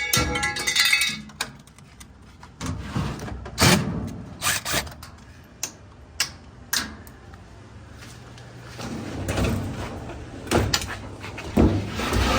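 Scattered knocks, clunks and rattles of a top-load washer's sheet-metal cabinet top being handled and lifted up, with a short low hum in the middle.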